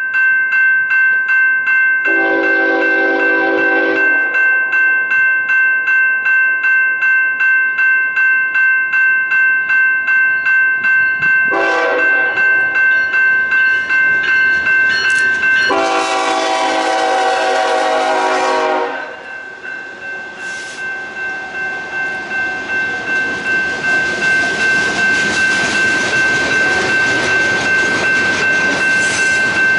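Freight locomotive horn sounding three times: a blast of about two seconds, a short blast, then a longer blast of about three seconds. A bell rings steadily at about two strokes a second throughout. After the last blast the train's wheels rumble and clack on the rails as the cars pass, growing louder toward the end.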